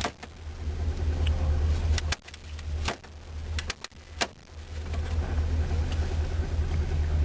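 Chevrolet 305 cubic-inch V8 in a 1985 Caprice Classic idling with a steady low hum, which the owner says has valve problems. In the middle the engine sound drops away for about two seconds among a few sharp clicks, then the idle comes back and runs on.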